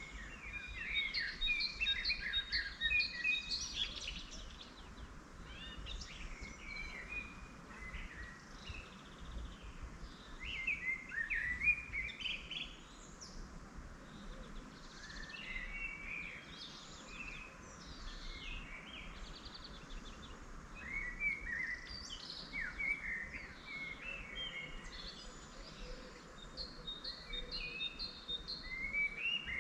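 Several songbirds singing, with short, quick, overlapping phrases and trills following one another all through, busiest near the start and around the middle. Under them lies a steady low background rumble.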